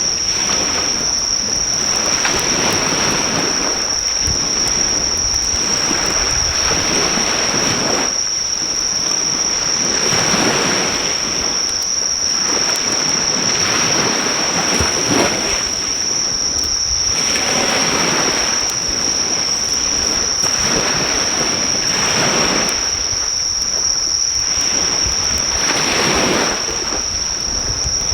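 Waves breaking on a shore, swelling and falling back every two to three seconds, under a steady high-pitched drone of insects calling. The crackle of a driftwood fire is faint beneath them.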